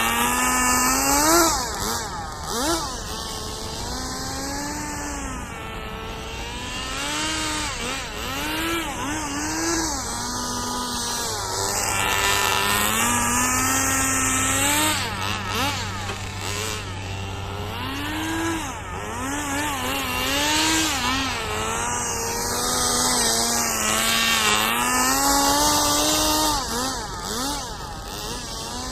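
Small nitro engine of a rear-wheel-drive RC drift car, revving up and dropping back again and again as the throttle is worked through the drifts.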